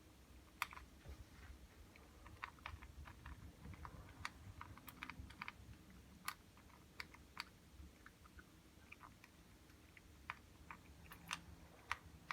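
Faint, irregular sharp clicks and taps, scattered unevenly, over a low background rumble.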